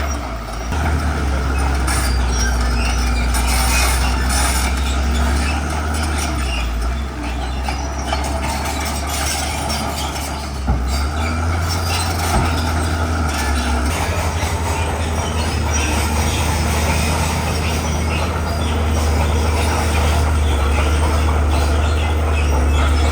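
Komatsu bulldozer's diesel engine running steadily under work, with two sharp knocks a little under eleven seconds in and about a second and a half later.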